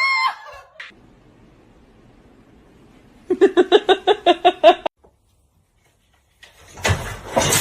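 A brief cat meow, then after a pause a cat chattering: a rapid run of about ten short pitched calls over a second and a half.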